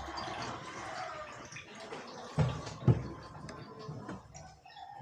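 Water dripping and splashing, with two knocks about two and a half and three seconds in.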